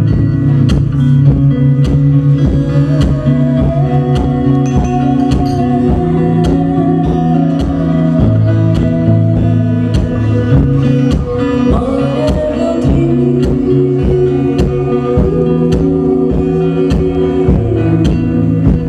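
Live ensemble music: plucked guitar strokes over steady sustained low notes, with a long held melody line above them that slides up to a higher note about twelve seconds in.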